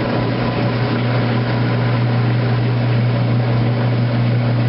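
2008 Kenmore washing machine running through its drain stage, a steady, even hum from its motor and pump.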